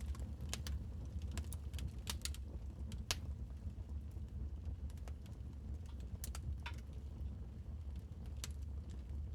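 Wood fire crackling in a fireplace: scattered sharp pops and snaps, one or two a second, over a steady low rumble.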